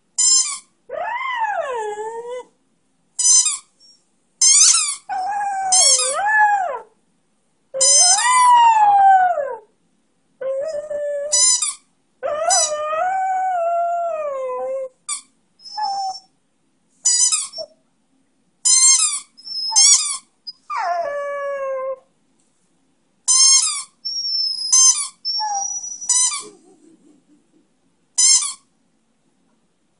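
A young beagle-schnauzer mix dog howling in long wavering notes that rise and then fall away, broken up by short, high-pitched squeaks from a squeaky toy, about a dozen squeaks spread through.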